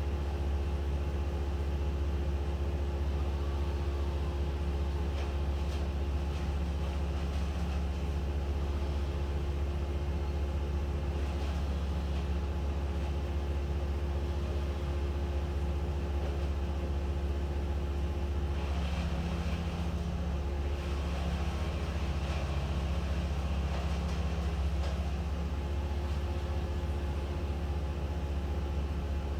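An engine running steadily at one constant speed, with a strong low hum.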